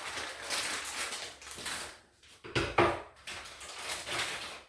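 Rustling and scraping as closet-organizer parts are handled, with two sharp knocks close together about two and a half seconds in.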